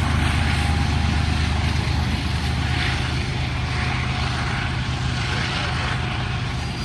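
Diesel-electric freight locomotive engines running with a steady low drone, under a haze of train noise.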